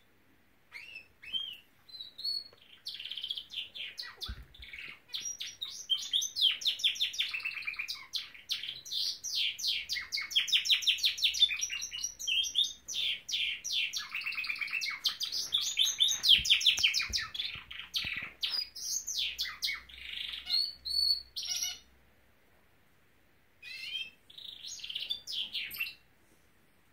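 Norwich canary singing: a long run of rapid trills and warbling rolls starting about a second in, breaking off at about 22 seconds, then a short final burst of song near the end.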